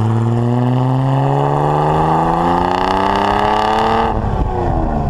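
Austin-Healey 3000's straight-six exhaust under acceleration, its note climbing steadily, then dropping about four seconds in.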